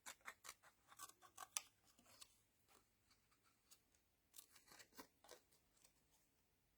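Scissors snipping paper in short, faint snips: a quick run in the first second and a half and a few more about four and a half seconds in, trimming a stamped word out freehand.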